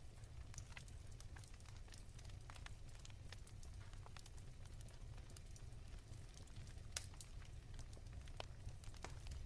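Wood fire crackling softly: scattered small pops and snaps over a low steady rumble, with one sharper pop about seven seconds in.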